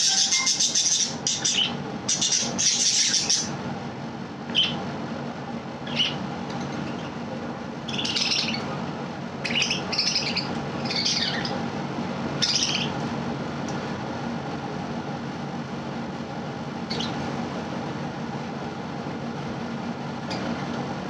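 Budgerigar chirping and squawking in short scattered bursts, busiest in the first half and quieter later on, over a steady low background hum.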